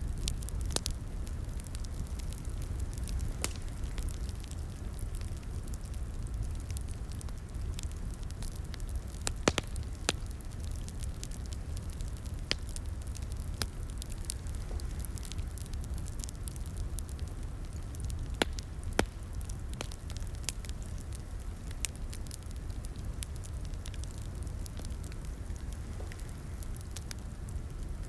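Wood fire burning in a fireplace: irregular sharp crackles and occasional louder pops over a steady low rumble.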